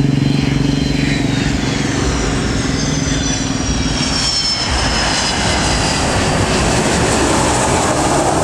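Jet airliner passing close by, its high engine whine falling in pitch as it goes, followed by a steady rushing engine noise. A low engine hum underneath stops about four seconds in.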